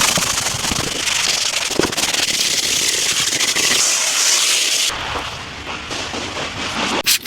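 Pressure washer jet spraying onto a dirty car's bodywork, giving a loud crackling hiss. About five seconds in it drops to a quieter, lower rush.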